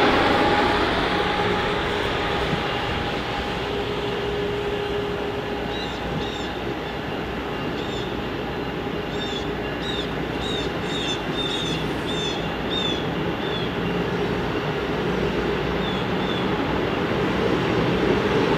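Amtrak Acela Express trainset rolling slowly past at the platform: the steady running noise of its wheels on the rails, with a series of short high chirps through the middle.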